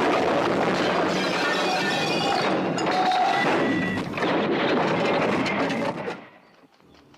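A vehicle crash: a loud smash with breaking glass and clattering metal that starts abruptly, runs for about six seconds and dies away.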